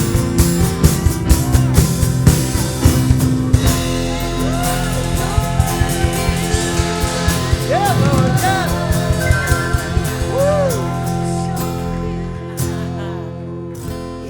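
Live worship band with drum kit, guitar and keyboard. A steady drumbeat stops about four seconds in, giving way to held chords with wavering wordless vocal lines, and the music fades away near the end as the song closes.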